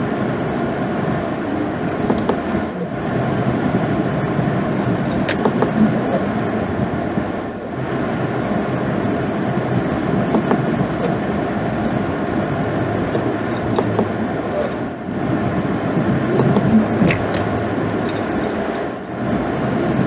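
Pickup truck with a snow plow at work, clearing a parking lot: a steady rumble of engine and road noise that dips briefly about four times. There are a couple of sharp clicks.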